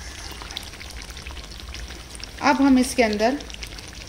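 Marinated chicken frying with a steady crackling sizzle in ghee that has separated from the masala, the sign that the bhuna stage is done. About two and a half seconds in, a voice makes a brief two-part sound, louder than the sizzle.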